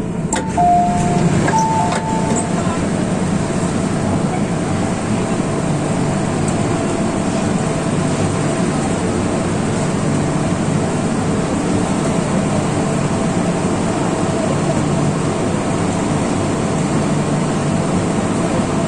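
Hong Kong MTR M-Train stopped at a station platform: steady running hum of the train mixed with station ambience. Two short high tones, one after the other, sound about one to two seconds in.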